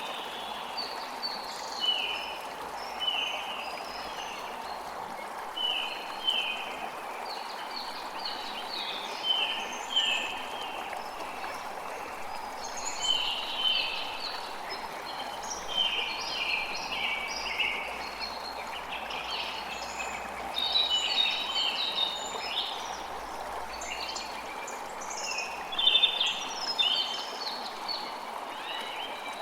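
A creek running with a steady rush, and several birds chirping over it in short repeated phrases, busiest in the second half.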